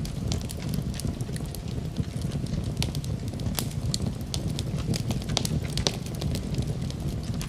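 Wood fire crackling, with many irregular sharp pops and snaps over a low, steady rumble.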